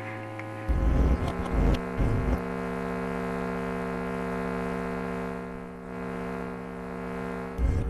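Steady electrical hum, with a few low thuds in the first couple of seconds and again near the end.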